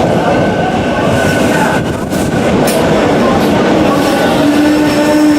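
A commuter train passing close by at speed, a loud running rumble with wheel clatter and a few sharp clicks over the rails. About four seconds in, a steady tone with several overtones comes in and holds.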